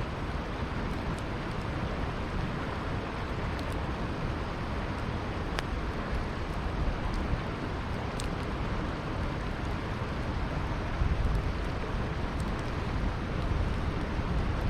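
Campfire crackling with a few sharp, sparse pops over the steady rushing of a river.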